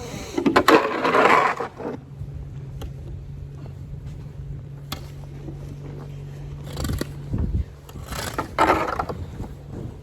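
Snow shovel scraping across pavement: a long scrape at the start, a short one about seven seconds in and another long one soon after. A low steady hum runs through the quieter middle stretch.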